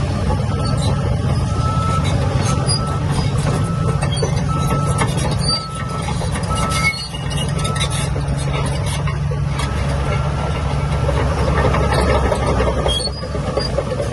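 Heavy diesel earthmoving machinery, such as a bulldozer, running steadily under load, with a reversing alarm beeping repeatedly for most of the time. Scattered high squeaks and clanks from the machine's running gear come and go over the engine.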